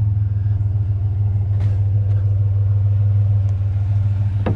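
Pickup truck engine running with a steady low drone.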